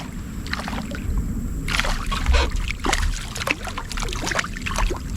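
Scattered knocks, taps and light splashes of a small bass being handled in a kayak, over a low rumble of wind on the microphone.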